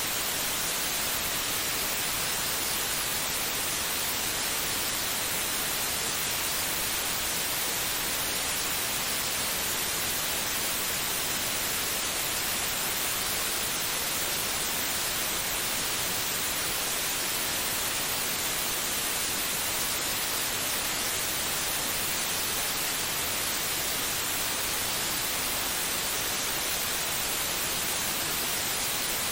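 Steady white noise for lulling a baby to sleep: an even, unchanging hiss, strongest in the high end, with no heartbeat or other rhythm in it.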